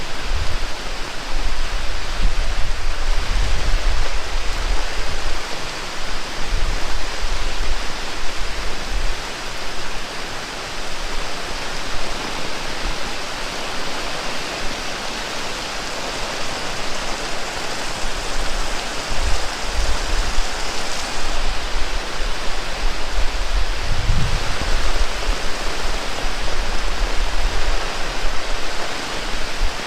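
Heavy rain pouring steadily, a dense even hiss, with low rumbles now and then underneath, most notably about a minute's third in and again about 24 seconds in.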